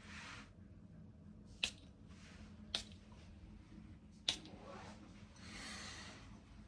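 Three sharp, short clicks, roughly a second or more apart, among faint soft rustling in a small room.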